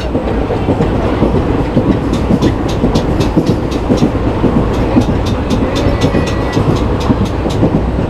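Passenger express train's coaches running along the track, heard from on board: a steady loud rumble with a quick run of sharp clicks of the wheels and couplings from about two seconds in.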